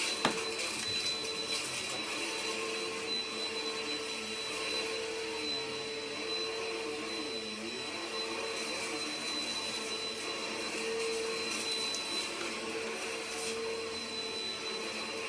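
Vacuum cleaner motor running steadily with a constant whine, with a single sharp click just after it starts.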